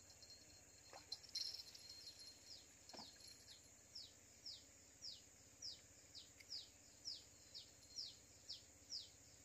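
A bird calling faintly in a regular series of short high notes, each falling in pitch, about two a second, with a brief burst of clicks just before the calls start.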